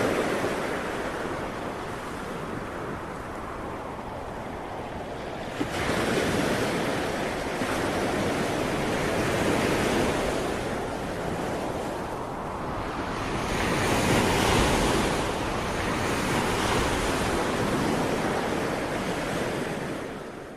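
Ocean waves surging and washing ashore in slow swells, with a sudden louder surge about six seconds in. The sound fades out at the very end.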